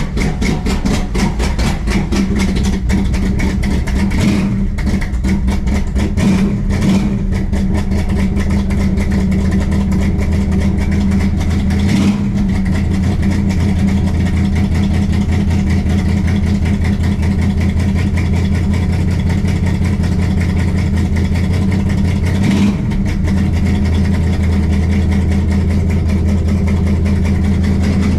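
A cold-started car engine idling steadily, with a few brief changes in its note along the way.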